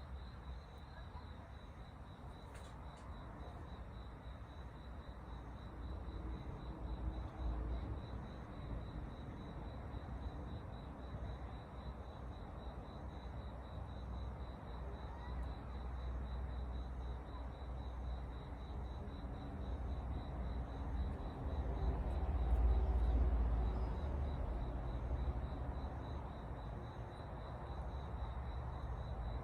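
Insects, cricket-like, trilling in a steady high pulsing tone, over a low rumble that swells for a few seconds past the middle.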